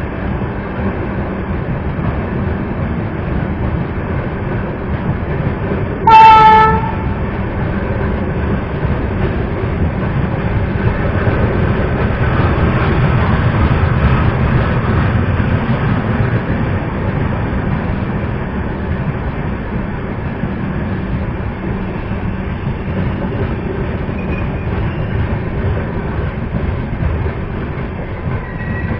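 A train rumbling along the track, with one short, high-pitched horn blast about six seconds in, the loudest sound; the rumble swells midway and then eases.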